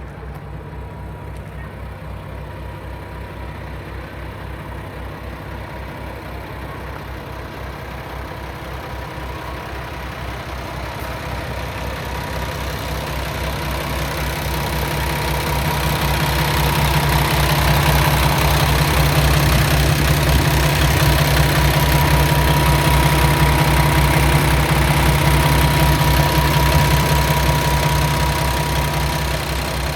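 Paccar MX-13 inline-six diesel engine of a 2019 Peterbilt 579 idling steadily with an even low rumble. It grows louder through the middle and eases off near the end.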